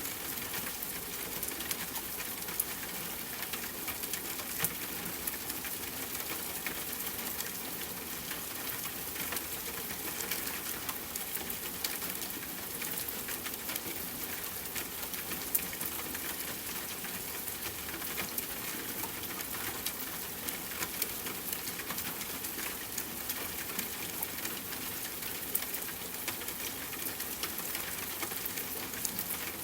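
Steady rain ambience, an even hiss with scattered sharp drop ticks, at a constant level.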